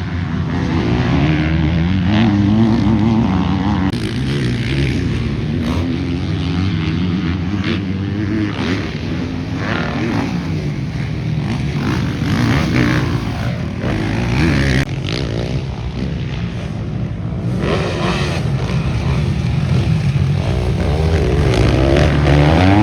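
Motocross dirt bike engine at race pace, the revs rising and falling again and again through throttle and gear changes.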